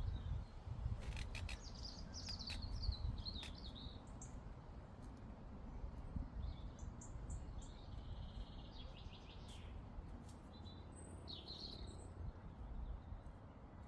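Small songbirds chirping and trilling in short, scattered phrases over a steady low rumble of breeze across the microphone.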